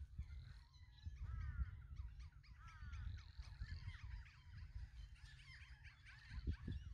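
Several birds calling and chattering over one another in a busy chorus of short falling calls, over a low rumble.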